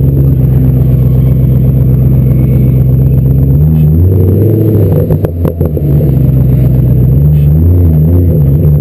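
BMW car engine running at high revs, the pitch wavering up and down as the throttle is worked. About five seconds in the revs dip briefly with a few sharp clicks, then pick up again.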